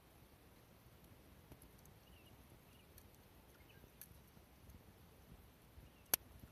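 Small wood campfire crackling faintly: scattered soft ticks, then one sharp pop about six seconds in.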